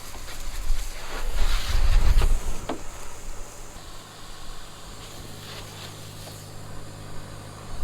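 Pressure washer spraying water to rinse road salt off the lower body of a truck, over the steady hum of the washer's pump. The spray is louder for the first couple of seconds, then drops to a quieter steady hum.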